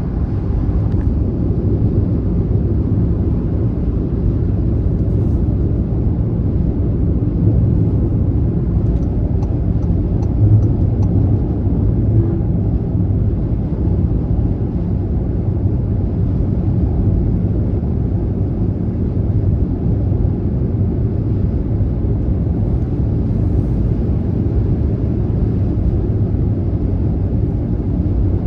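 Car driving on a motorway: steady, low road and tyre rumble with no change in speed.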